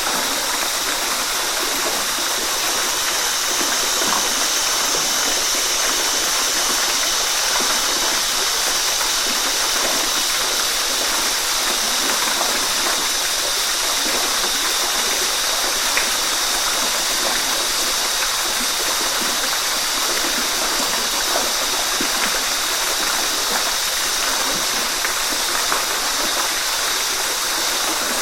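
Waterfall: a steady rush of falling water, even and unbroken, with faint small splashes scattered through it.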